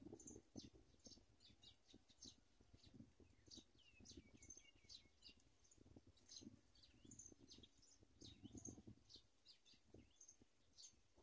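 Faint, rapid high-pitched chirping of small birds, several short chirps a second with a few gliding notes, over soft low rustling.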